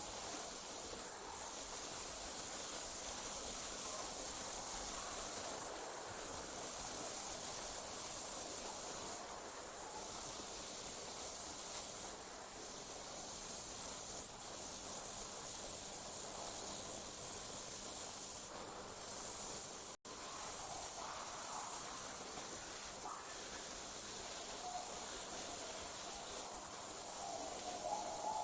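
Crickets trilling at night in a continuous, very high-pitched chorus that drops out briefly every few seconds.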